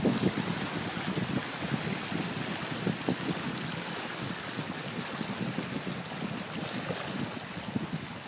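Rain falling as a steady, even hiss, with wind buffeting the microphone in uneven low gusts.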